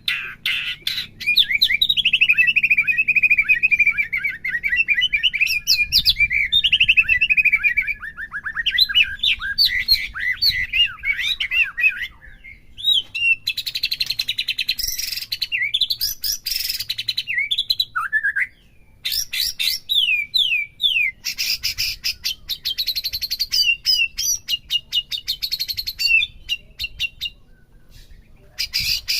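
White-rumped shama (murai batu) singing: a fast, varied run of clear whistles and sweeping notes, mixed with stretches of rapid rattling chatter and broken by a few short pauses. It is song played to stir up a captive shama so it starts singing in full.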